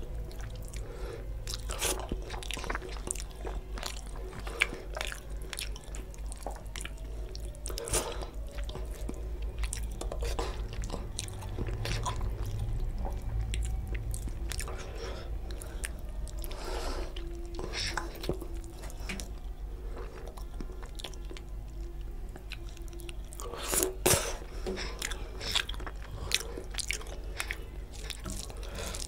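Close-miked eating sounds: wet chewing and lip smacks from mouthfuls of rice and fish curry eaten by hand, with squelching as fingers mix the rice into the gravy. A steady low hum runs underneath.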